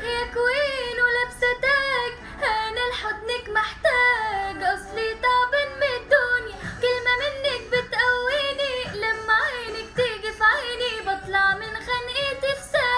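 A high female voice singing an ornamented Arabic melody without pause, the pitch bending and trilling through each phrase.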